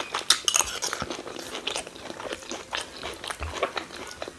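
A person chewing and biting food close to the microphone, a quick irregular run of crisp clicks and crunches.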